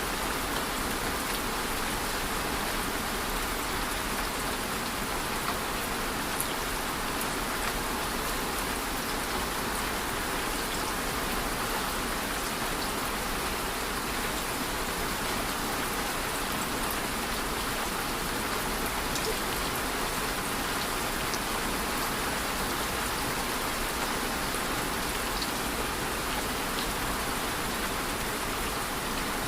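Steady rain falling, an even hiss of rain with scattered individual drops ticking.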